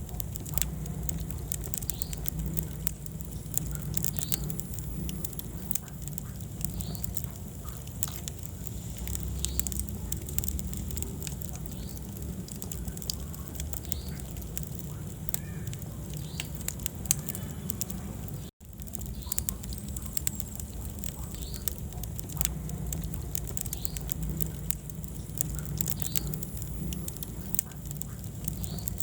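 Wood fire burning in a fireplace: a steady low rumble of flames with frequent small crackles and pops. The sound cuts out for an instant about two-thirds of the way through.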